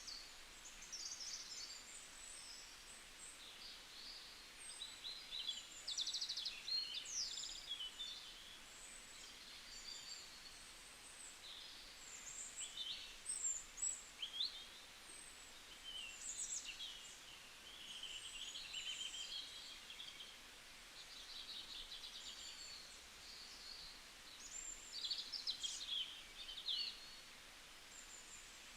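Small birds singing, a steady run of chirps, trills and quick sweeps from several birds over faint outdoor background noise.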